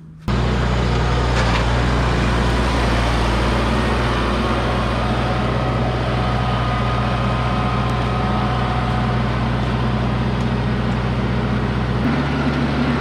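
An engine running steadily at a constant speed. Its note changes about twelve seconds in, as if the engine speed or load shifts.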